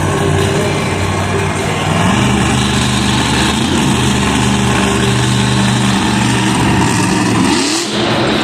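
Monster truck engine running loud, revving up about two seconds in and holding, then dropping back and surging again briefly near the end.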